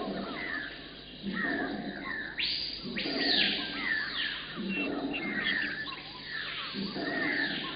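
Several birds chirping and calling, short high chirps overlapping throughout, with a lower sound coming back about every two seconds.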